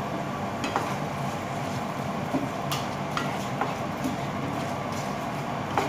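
Shrimp frying in butter in a pan, a steady sizzle, with a wooden spatula knocking and scraping against the pan a handful of times as they are stirred.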